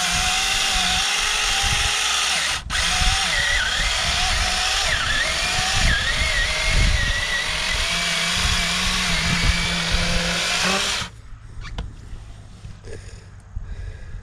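Small chainsaw running and cutting into a pumpkin, its motor whine wavering in pitch as the cut loads it. It lets off for an instant about two and a half seconds in and shuts off abruptly about eleven seconds in.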